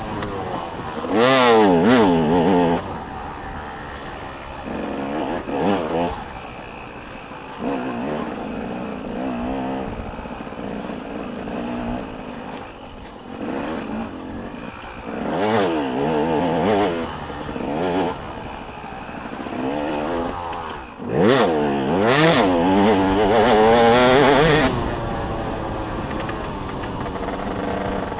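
Motocross bikes racing on a track, engines revving up and dropping back as they shift and pass by, with a loud pass near the start and a longer, loud stretch of several bikes later on.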